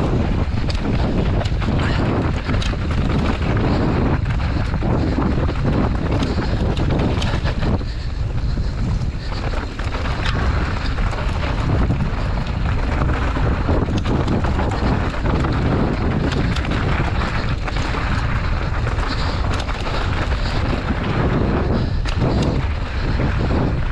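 Mountain bike riding down a dirt enduro trail, with wind buffeting the microphone in a steady loud rumble. The tyres crunch over the ground and frequent small knocks and rattles come from the bike going over bumps.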